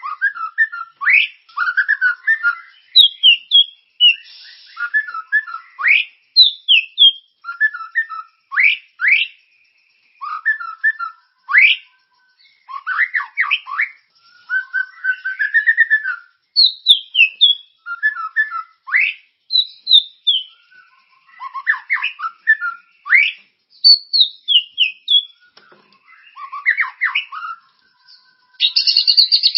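Songbird masteran (tutor-song) recording used to train a white-rumped shama: loud, varied whistled phrases, quick rising and falling sweeps and chirping trills in short bursts every second or two, separated by brief gaps. A dense high trill comes near the end.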